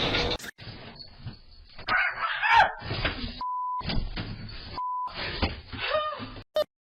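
Two short, steady electronic beeps at one pitch, about a second and a half apart, like censor bleeps laid over a clip, with other indistinct, mixed sounds around them.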